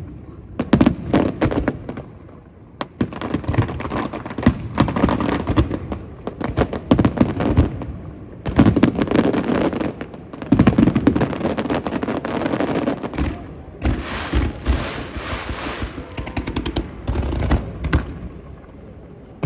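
Fireworks display: aerial shells bursting in rapid volleys of sharp bangs with dense crackling, in several clusters separated by brief lulls.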